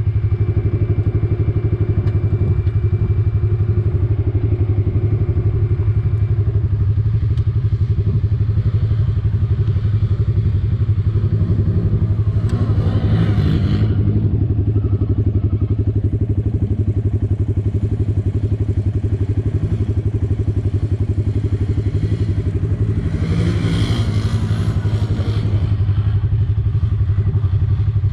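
ATV engine running steadily, with the rattle and clatter of the machine over rough ground. Twice the sound briefly swells into a louder, harsher rush, once about halfway through and again later on.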